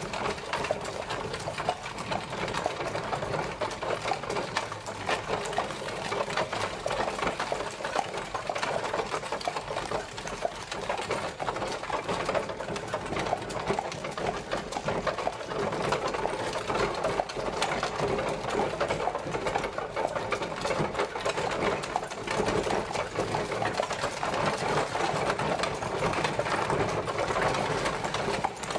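Horse-drawn carriage travelling: a steady, rapid rattle and clatter of the wooden carriage and its wheels rolling along.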